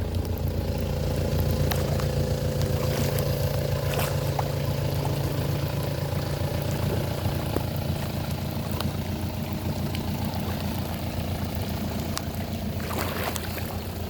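Mahindra Roxor's 2.5-litre turbodiesel idling steadily while the vehicle sits in deep water, with a brief swish of water near the end.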